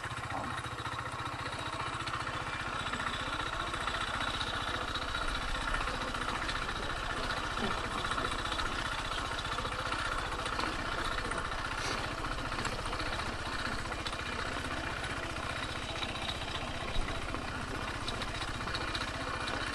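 Kymco KTR 150 motorcycle's single-cylinder four-stroke engine running steadily at low revs, with an even low hum throughout. There is one brief click about seventeen seconds in.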